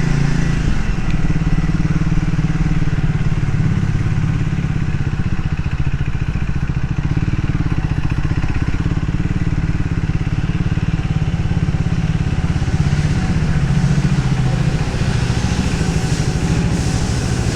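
Triumph Speed 400's single-cylinder engine running steadily at low revs, with a fast even pulsing.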